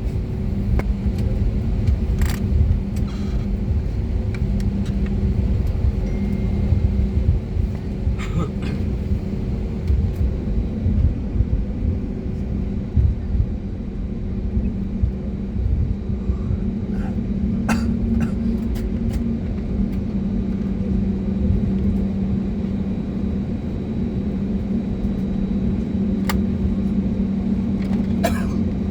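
Cabin noise inside an Airbus A320neo with CFM LEAP-1A engines: a steady low rumble with an even engine hum, and a few brief clicks.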